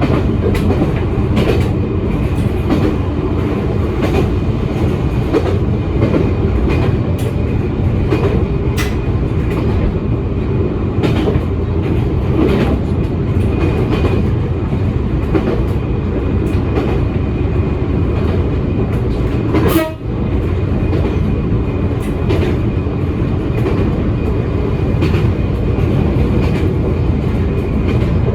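Toyama Chiho Railway electric train running, heard from inside the front car: a steady low rumble with frequent clicks of the wheels over rail joints, and one sharp clack about twenty seconds in.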